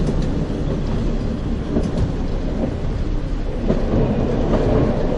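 Narrow-gauge train running along the track: a steady low rumble with a few faint clicks from the wheels and rails.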